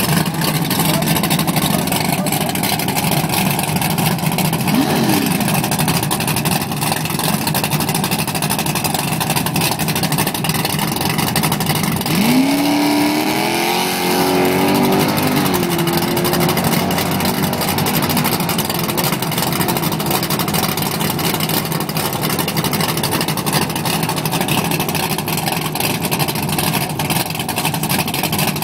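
Drag-race cars' engines running loud and steady at idle in the staging lanes. One engine blips briefly about five seconds in, then revs up hard about halfway through, holds for a few seconds and drops back to idle.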